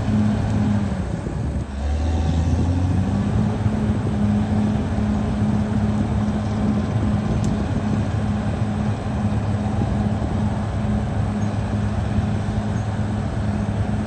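Caterpillar D6R XL bulldozer's diesel engine running steadily under work. Its note dips briefly about one and a half seconds in, with a lower tone for about a second, then settles back to a steady pitch.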